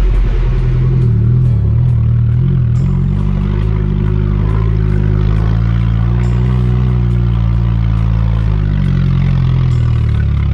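Car engine running on the road, its pitch drifting up and down with engine speed.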